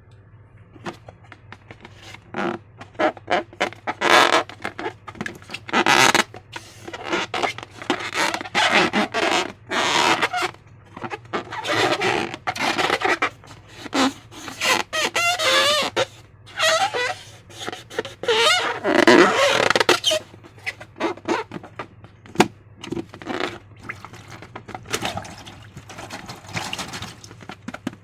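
Slime being squished and stretched by hand, giving wet, sticky squelches in irregular bursts, some short and some drawn out over a second or so.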